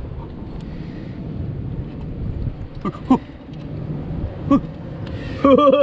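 Strong wind buffeting the microphone over rough surf, a steady low rumble, broken by short grunts about three seconds in and a loud vocal exclamation near the end.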